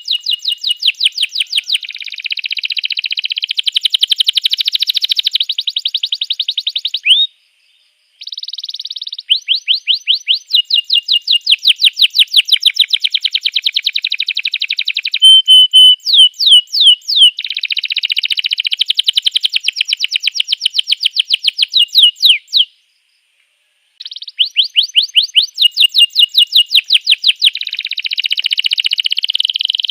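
Domestic canary singing loud, fast trills: long runs of rapidly repeated high notes changing from phrase to phrase, with two short breaks about 7 and 23 seconds in.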